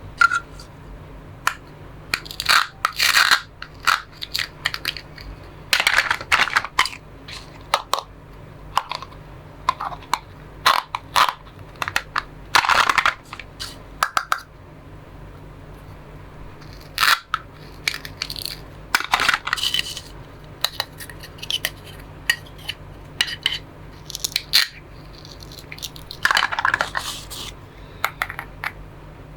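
Plastic toy fruits and vegetables being cut with a toy knife and handled: irregular clicks, clacks and short rasping crunches, coming in clusters with short pauses between.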